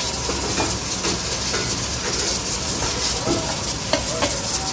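Curry and chicken karahi frying in woks over gas burners: a steady sizzling hiss, with the low, even roar of the burner flames beneath.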